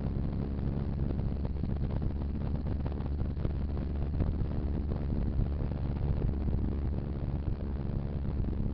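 Motorcycle engine running at a steady pace with wind noise on the microphone.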